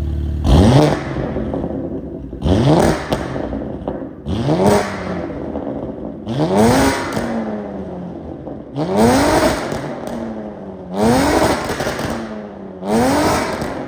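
BMW G87 M2's twin-turbo inline-six free-revved seven times through an aftermarket Valvetronic variable-valve exhaust, each blip rising quickly in pitch and falling back toward idle, about every two seconds.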